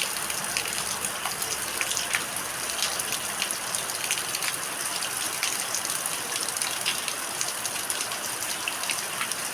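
Light rain falling steadily: a continuous hiss scattered with many small, irregular drop ticks.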